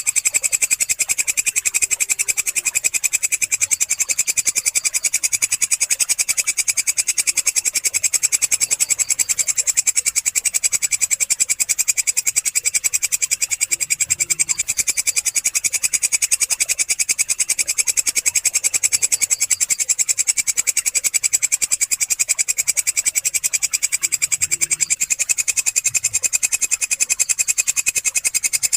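Walang kecek, a katydid, stridulating in a continuous high-pitched trill of very rapid, even pulses that runs without a break.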